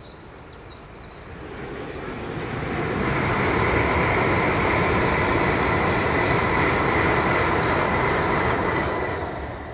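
Tokaido Shinkansen bullet train passing at speed. A rushing noise builds over about two seconds, holds steady with a thin high whine running through it, then fades away near the end.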